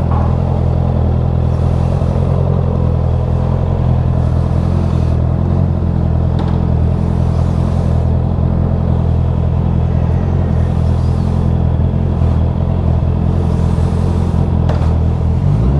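Vehicle engine running at a steady speed: a constant low drone that holds its pitch throughout.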